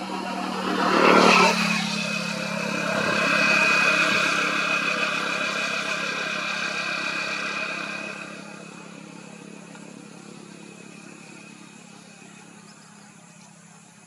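A motor vehicle passing by: loudest about a second in, running steadily and swelling again, then fading away after about eight seconds.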